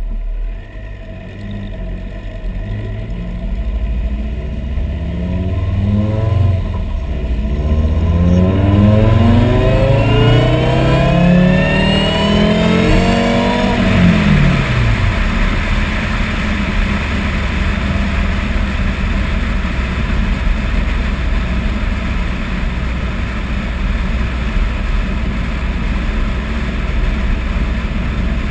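Supercharged 2.5-litre five-cylinder engine of a VW Rabbit being revved: its pitch climbs over several seconds, peaks about halfway through and drops quickly, followed by a steady loud noise to the end.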